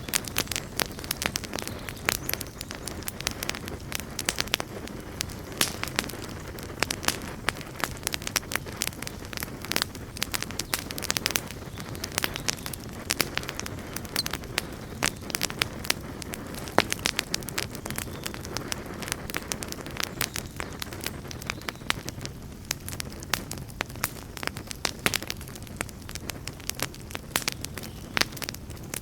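Wood campfire burning steadily, with a low rumble of flame under frequent sharp crackles and pops at irregular moments.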